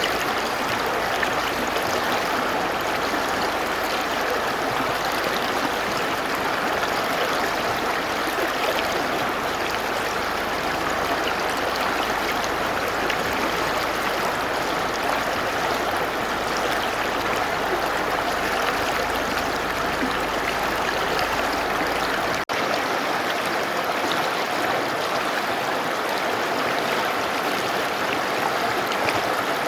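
Mountain river flowing: a steady, even rush of water, with a momentary dropout about three-quarters of the way through.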